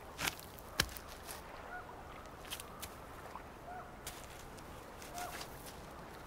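Faint short bird calls, three or four times, spaced over several seconds, with two sharp clicks or crunches in the first second.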